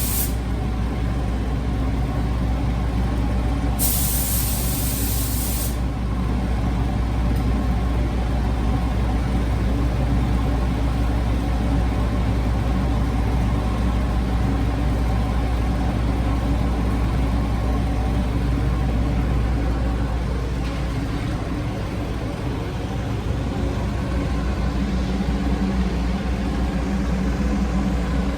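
Steady low machine hum throughout, with a paint spray gun hissing for about two seconds around four seconds in and briefly at the very start.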